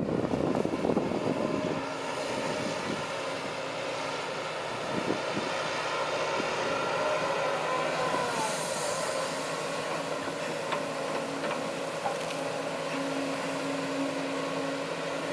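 Diesel engines of heavy earthmoving machinery running steadily, with a faint knock now and then.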